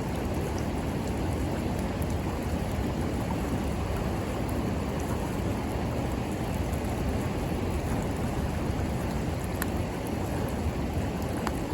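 River water flowing steadily, with a few faint crackles and pops from a wood campfire now and then.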